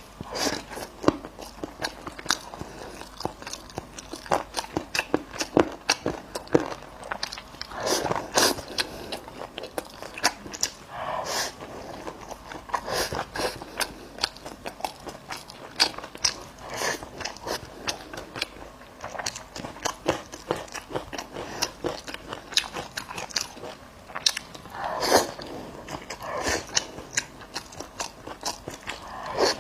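Close-miked eating: a person biting and chewing meat, with dense, irregular wet chewing clicks and crunches several times a second.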